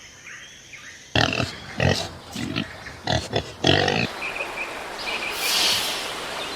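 Pig grunting: a run of short, loud grunts over about three seconds, followed by a steadier, hissing, breathy noise.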